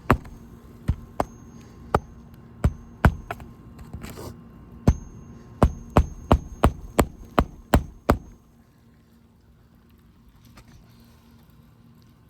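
Hammer driving a roofing nail under a raised shingle: about fifteen sharp strikes with a short metallic ring. The blows are spaced out at first, then come as a quicker run of eight or nine, and they stop a little after eight seconds in.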